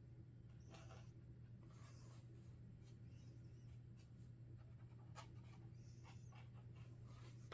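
Sharpie Creative Marker tips drawing on paper: faint, short scratchy strokes at an irregular pace, over a steady low hum.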